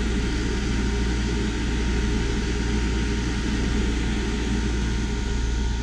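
Mabru MPS 05DC 12-volt DC water-cooled mini heat pump running steadily: its fan blows air with a constant low hum underneath.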